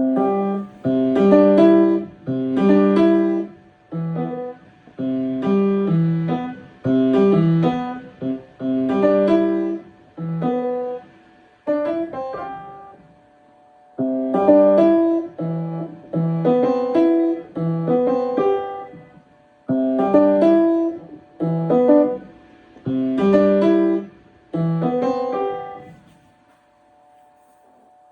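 Piano played in short chordal phrases, with a pause of about two seconds near the middle, stopping shortly before the end.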